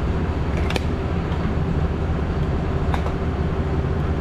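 Ambulance truck engine idling steadily, with a couple of light clicks over it.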